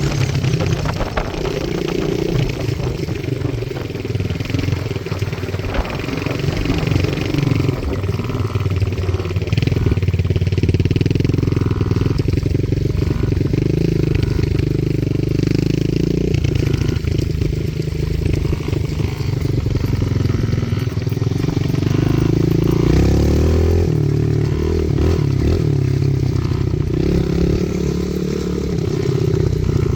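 Small pit bike engines running, their pitch rising and falling as the throttle is opened and eased off.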